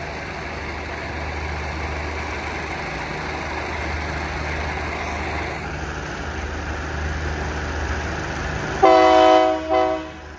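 Diesel locomotive of a passenger train idling with a steady low hum, then its horn sounds loudly near the end: one blast of under a second and a short second toot right after it, the signal that the train is about to pull out.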